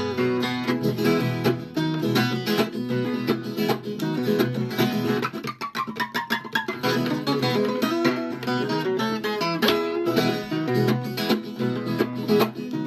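Viola caipira, the Brazilian ten-string folk guitar, played solo in a plucked instrumental passage, with no singing.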